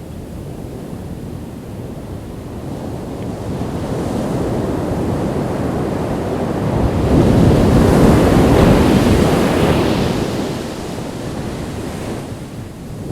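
Ocean waves breaking on a beach. One wave builds from about three seconds in, crashes loudest around eight to ten seconds, and washes back down near the end, with wind on the microphone.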